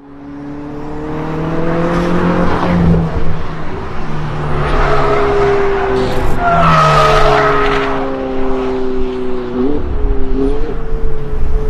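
Ferrari 488's twin-turbo V8 running through a titanium aftermarket exhaust, its note drifting gently down in pitch and shifting near the end, with rushing surges of hiss twice along the way.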